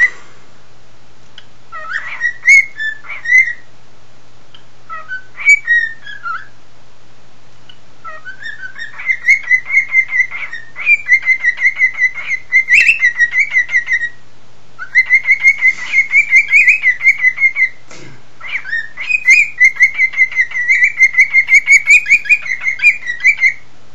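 Cockatiel singing: a few short whistled notes at first, then from about eight seconds in long runs of fast, chattering warbles broken by two short pauses.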